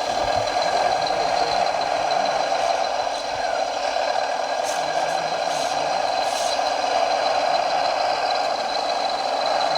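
Radio-controlled scale model truck running: a steady, thin mechanical hum with a faint high whine and little deep engine note.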